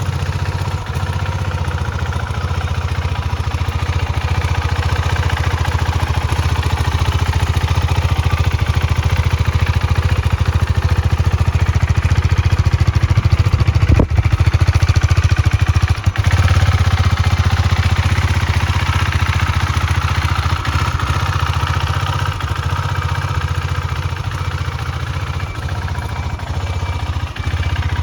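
KTM 390 Duke's single-cylinder engine idling steadily.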